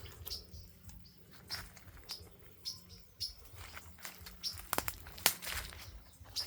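Footsteps crunching through dry leaf litter at a walking pace, a little under two steps a second.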